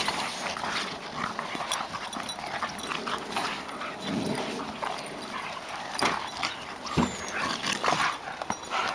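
Airedale terriers moving and playing about in snow: scattered short rustles, scuffs and crunches with dog noises, and a sharper knock about seven seconds in.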